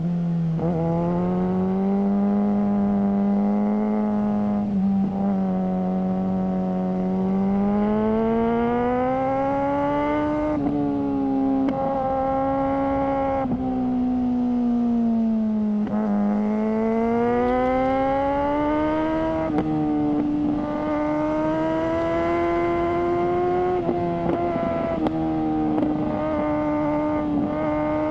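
Suzuki GSR600's inline-four engine breathing through a GPR Ghost aftermarket exhaust. The engine is running under way, its pitch climbing and falling with the throttle. There are brief dips and breaks several times, about every few seconds.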